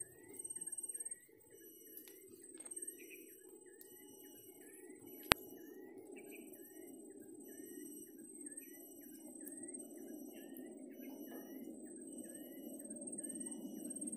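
A bird repeating a short chirp over and over, a little more than once a second, with thin high trills above it and a steady low rumble beneath. A single sharp click stands out about five seconds in.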